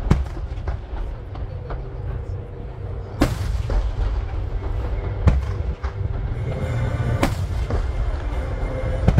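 Starmine of large aerial firework shells (shakudama) bursting: a sharp boom about every two seconds, five in all, with fainter cracks between and a continuous low rumble from the barrage.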